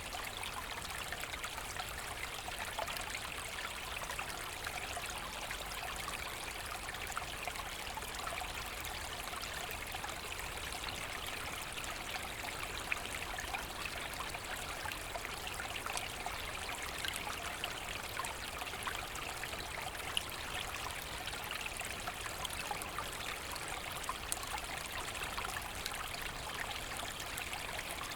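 A small forest brook running steadily, water trickling and splashing over stones with a continuous bright rush and scattered small drips.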